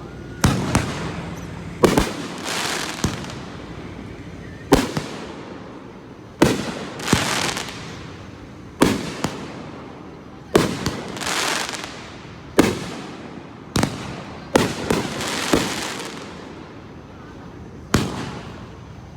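Aerial fireworks shells bursting: about a dozen sharp bangs at irregular intervals, every second or two, each trailing off in a fading hiss.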